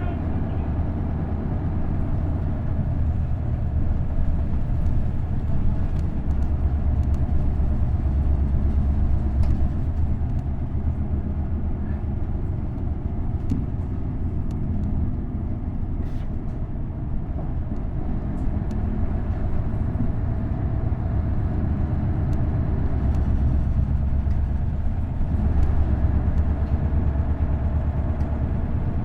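Isuzu Erga bus's V8 diesel engine running under way, heard from inside the bus: a steady low drone with road noise, swelling twice as the bus pulls harder.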